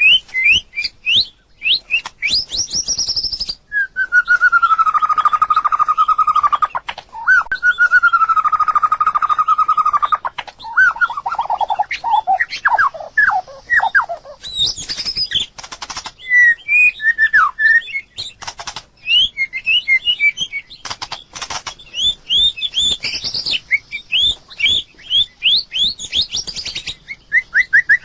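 White-rumped shama singing a varied song of quick chirps, whistles and sharp clicks. Two long held notes come a few seconds in, followed by a falling run of notes and then rapid high chirps.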